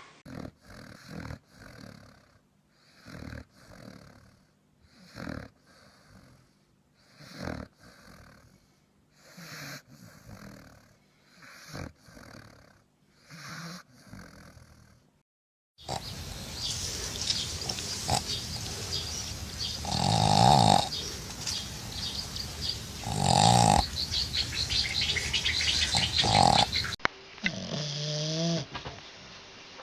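Sleeping dogs snoring. First come slow, regular snores about every two seconds. A louder clip over steady background noise follows, with two loud snores about three seconds apart, and near the end a short wavering, whistling snore.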